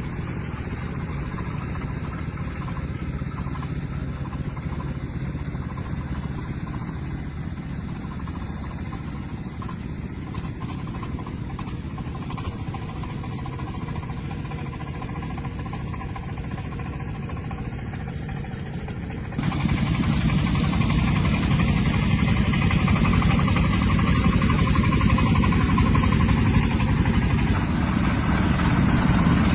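Tractor engine running steadily; about two-thirds of the way through it suddenly becomes louder.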